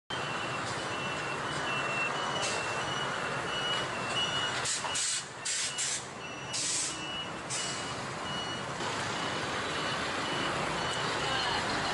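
Road traffic noise with a steady series of short, high electronic beeps, and several short, loud hisses between about four and eight seconds in.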